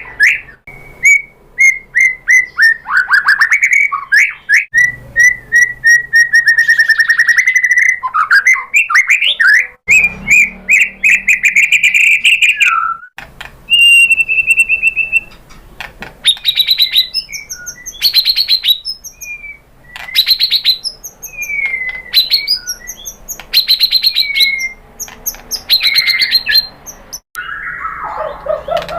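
White-rumped shama (murai batu) singing a fast, varied song. The first half is continuous whistled phrases and trills, and the second half is a string of short, sharp chattering bursts with falling notes.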